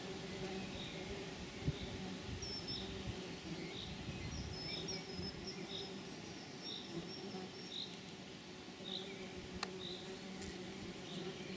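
Outdoor wildlife sounds: a steady buzzing insect near the microphone, with a short high chirp repeating evenly, somewhat more than once a second, and a few higher squeaky bird-like notes in the middle.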